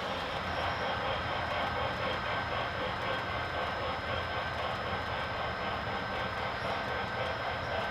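HO scale model train running by on the layout track: a steady rolling noise with a thin, steady high whine.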